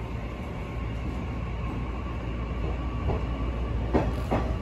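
Nishitetsu electric train heard from inside the car as it pulls out of a station: a steady low running rumble that slowly grows louder as it gathers speed, with a few wheel knocks on the track about three to four seconds in.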